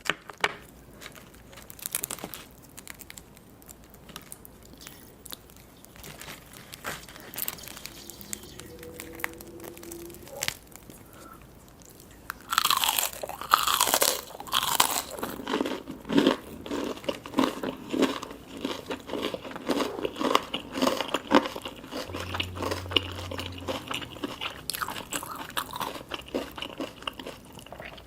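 Close-miked eating of crunchy sushi: a few scattered bites and mouth clicks at first, then from about halfway in a dense run of loud crunching bites and chewing.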